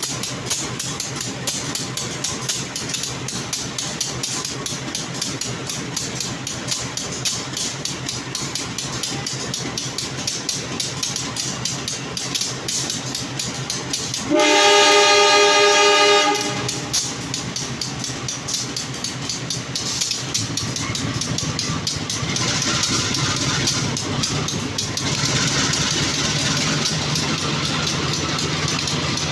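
Steady train noise, then about 14 seconds in a locomotive horn sounds once for about two seconds as the Bangunkarta train is dispatched. From about 20 seconds in the locomotive's engine grows louder as the train starts to pull away.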